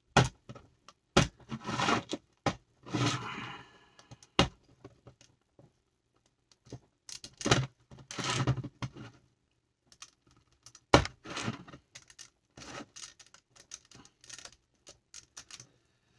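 Plastic LEGO bricks being handled and pried apart: several sharp clicks and snaps, with short scraping rustles of bricks being moved in between.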